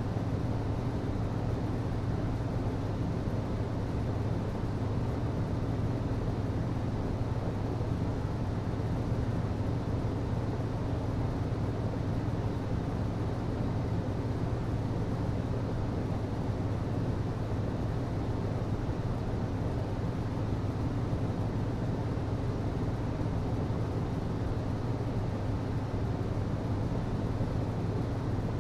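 HVAC system running steadily: a constant low hum with an even rushing of air over it.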